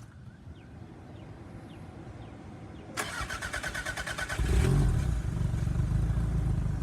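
Toyota MR2 Turbo's 3S-GTE turbocharged four-cylinder, fuelled on E85, cold-starting: about three seconds in, the starter cranks for a second and a half, then the engine catches and settles into a steady idle.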